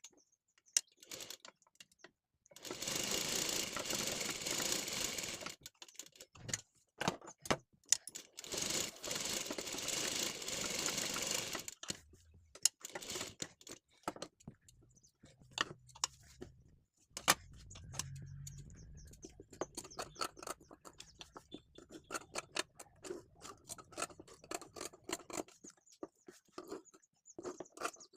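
Sewing machine stitching in two runs of about three seconds each, followed by scattered clicks and taps of handling.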